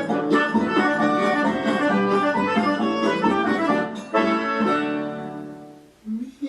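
Forró music led by an accordion over a steady percussion beat. About four seconds in the beat stops and a held chord fades out.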